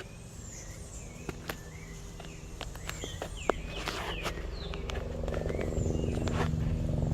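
Small birds chirping in short calls and quick falling whistles, with scattered clicks. A low steady hum grows louder over the second half.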